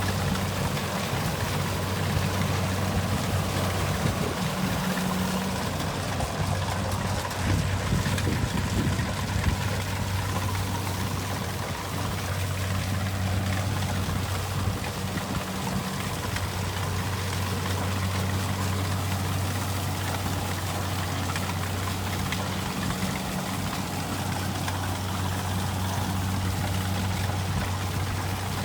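Diesel engine of a Kubota combine rice harvester running steadily: a deep, even drone with a rushing mechanical noise over it.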